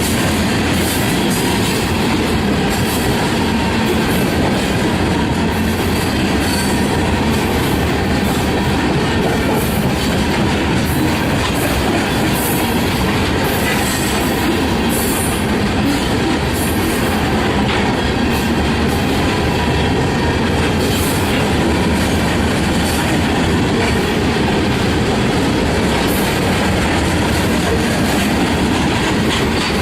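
Freight train cars rolling past at close range: a loud, steady rumble of steel wheels on rail with repeated sharp clicks and squeals from the wheels.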